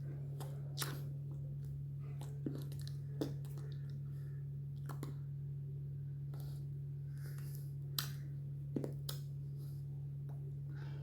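Steady low electrical hum with scattered soft clicks and taps, about half a dozen, irregularly spaced.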